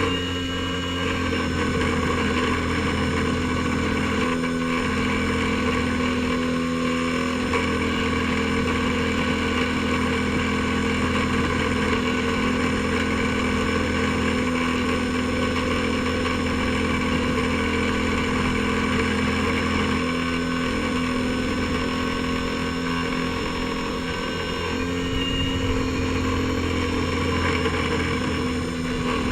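Airboat engine and propeller running steadily at an even speed, with a small dip in level a little past the middle.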